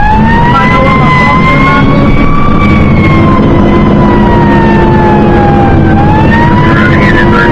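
Fire engine siren wailing, heard from inside the cab over loud engine and road noise: its pitch winds up, sinks slowly for several seconds, then climbs again about six seconds in before falling.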